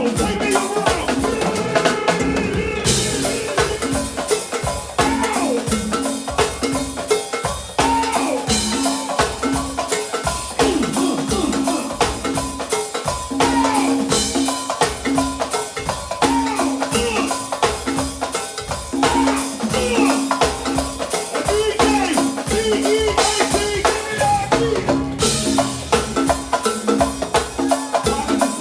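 Live band music, most likely go-go: a busy drum-kit groove with rimshots and hand percussion over a repeating bass riff, played without a break.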